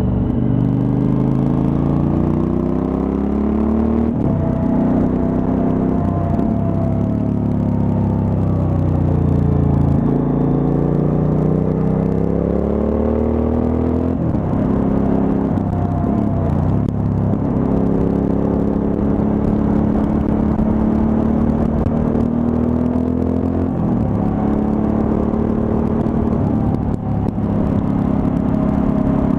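Suzuki V-Strom 1000's V-twin engine running on the road. Its pitch climbs and falls back again several times as the rider accelerates and eases off.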